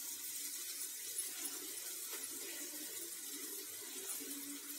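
Okra frying in oil in a steel kadai: a steady soft sizzle with faint scattered crackles.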